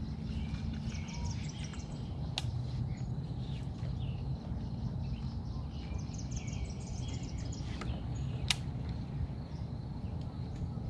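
Birds chirping in two runs of quick high notes over a steady low background rumble, with two sharp clicks a few seconds in and again near the end.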